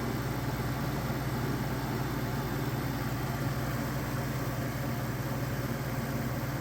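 A 1990s 40-pint Capehart dehumidifier running steadily: a constant low hum under the even rush of its fan, whose fan motor has just been oiled.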